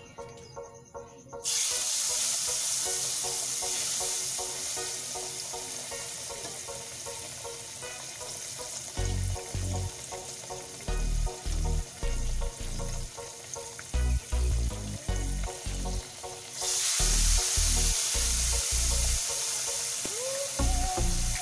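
Parboiled pork chops sizzling as they fry in hot oil in a stainless pan. The sizzle starts suddenly about a second and a half in as the first piece goes in, and grows louder again later as the second piece joins it. Low thumps recur through the second half.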